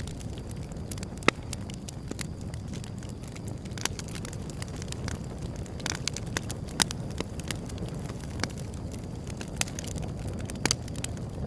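Wood fire burning with a steady low rumble and frequent sharp crackles and snaps, a few louder pops standing out: one early, one past the middle and one near the end.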